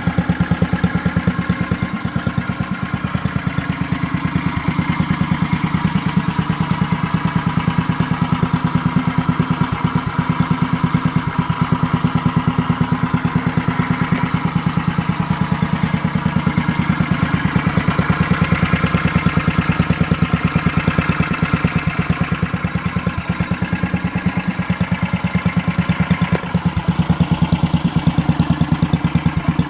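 Tecumseh H50 single-cylinder four-stroke engine on a 1970 Trail Horse mini bike, idling steadily with even, rapid firing pulses.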